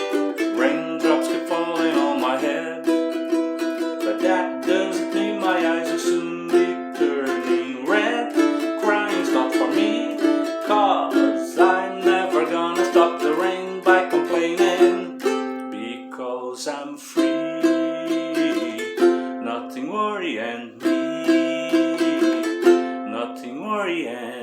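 Solo ukulele playing an instrumental passage, with strummed chords and picked melody notes, that dies away near the end as the piece finishes.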